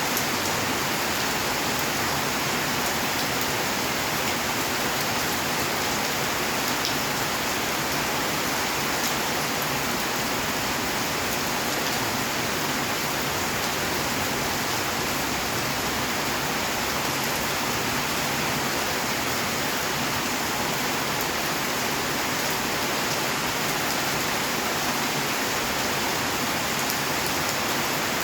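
Steady rainfall: a dense, even patter of rain with no let-up.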